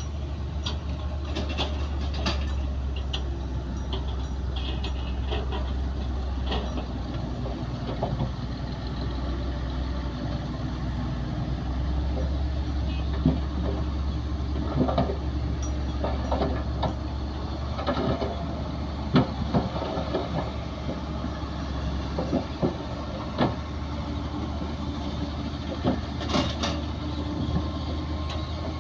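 Bulldozer's diesel engine running with a steady low drone, with irregular clanks and knocks throughout, sharper and more frequent in the second half.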